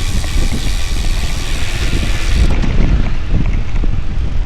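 Wind buffeting the microphone of a moving bicycle, a steady low rumble. A higher hiss drops away about halfway through.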